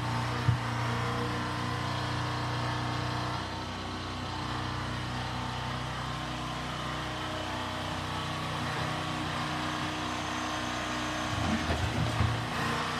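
An old heavy-equipment engine running steadily at an even speed, with a single knock just after the start and a short burst of knocks about a second before the end.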